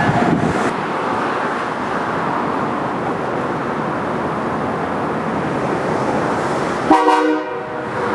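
Amtrak Acela Express trainset, power car leading, rolling slowly into a station with a steady rumble and hiss of wheels and traction equipment. About seven seconds in, a train horn gives one short toot lasting under a second.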